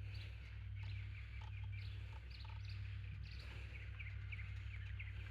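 Birds chirping in quick, repeated short calls, over a steady low hum.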